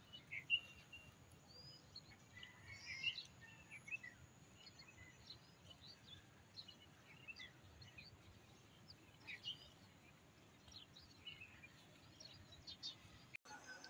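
Faint, scattered bird chirps: short high calls every second or so over a quiet background.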